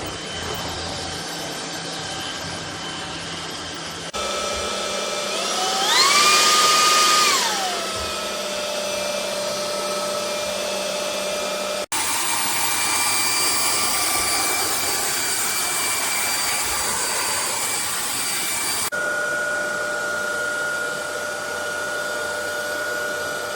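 Vistefly V15s Max cordless vacuum cleaner running with a steady motor whine. About five seconds in, the motor speeds up with a rising whine, holds the higher pitch for about two seconds, then settles back down. The sound breaks off abruptly and resumes a few times.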